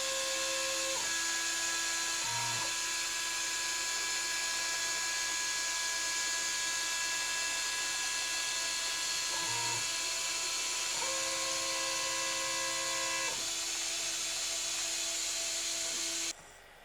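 CNC milling machine running a toolpath: a steady high hiss with motor whines that jump to new pitches every few seconds as the axes change moves. The sound cuts off suddenly near the end.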